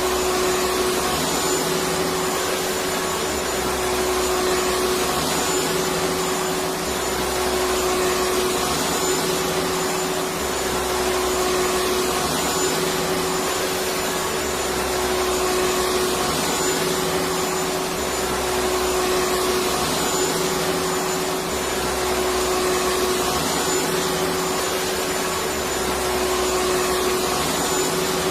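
Electric vacuum cleaner running steadily: an even rushing hiss over a constant motor hum, with a faint low pulsing that comes back about every three seconds.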